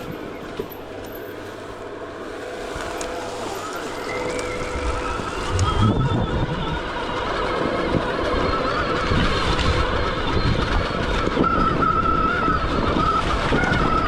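Stark Varg EX electric dirt bike's motor whining as it is ridden, the whine rising in pitch about halfway through as the bike speeds up, then holding and wavering. Underneath is a rough rumble that grows louder.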